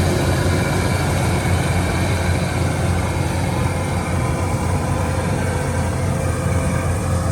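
An engine running steadily at constant speed with a deep, even hum, typical of farm machinery working at the rice harvest.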